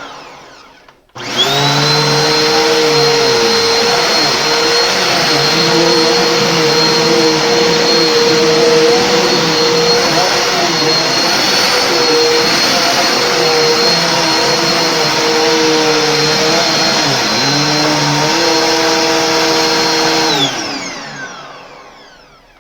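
Hoover Complete Performance bagged upright vacuum cleaner switched on: its motor starts suddenly about a second in and runs loud and steady with a high whine. Near the end it is switched off and winds down, the whine falling in pitch as it fades.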